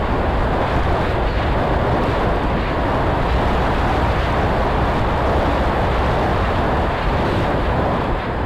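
Steady rushing wind noise buffeting the microphone while the electric Flyzone F4U Corsair RC plane is in flight in strong wind; no distinct motor or propeller tone stands out.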